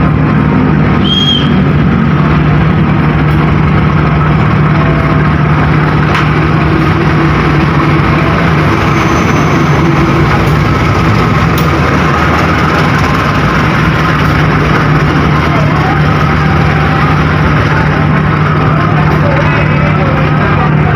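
Diesel locomotive engine running steadily at close range, with a constant low hum under the engine noise. There is a brief high squeak about a second in.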